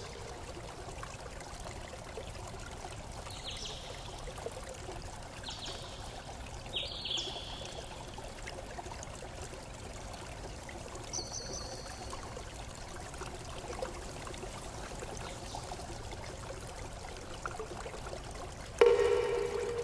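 Steady flowing, trickling stream water, with a few short high chirps in the first half. Near the end a loud ringing tone with several overtones starts suddenly and fades.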